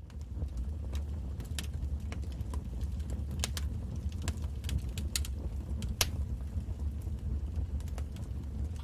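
Wood fire crackling in a fireplace: irregular sharp pops and snaps, the loudest about six seconds in, over a steady low rumble.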